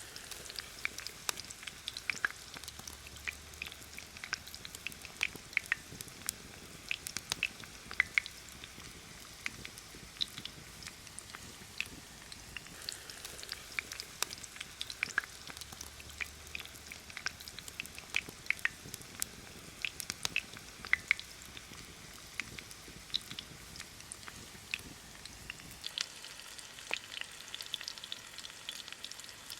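Breaded chicken cutlets deep-frying in hot oil in a skillet: a steady sizzle with frequent sharp crackles and pops.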